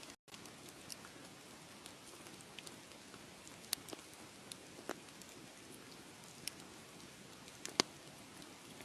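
Wood fire crackling: a steady low hiss with sharp pops scattered irregularly, the loudest about four, five and nearly eight seconds in. The sound cuts out for a moment just after the start.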